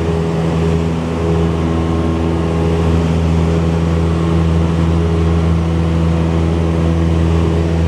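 Cessna 172's four-cylinder piston engine and propeller, a steady drone at constant power.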